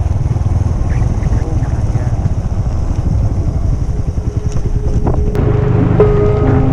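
Motorcycle riding noise: a steady low engine and wind rumble. About five seconds in, background music with held melodic notes comes in over it.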